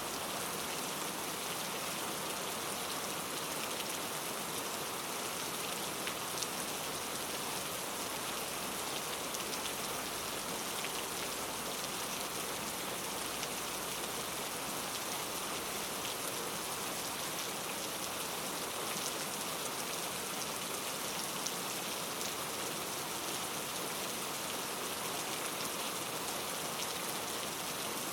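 Steady rain falling on a surface, an even hiss with faint individual drop ticks, unchanging throughout.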